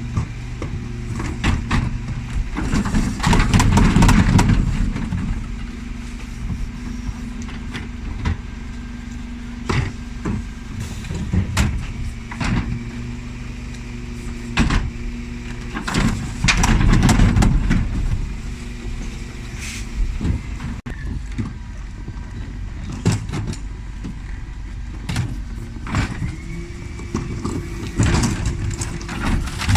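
Dennis Elite 6 bin lorry running at the kerb, its engine swelling louder twice, about thirteen seconds apart, over a steady hum, with repeated sharp knocks and clatters of wheelie bins being handled and tipped by the Terberg bin lift.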